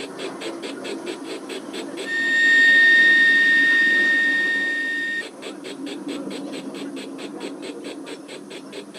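Model steam locomotive's sound decoder playing a steady chuffing exhaust beat, about four chuffs a second, over the rumble of the model running on the track. About two seconds in, a steam whistle sounds as one steady blast lasting about three seconds, the loudest sound here, then the chuffing carries on.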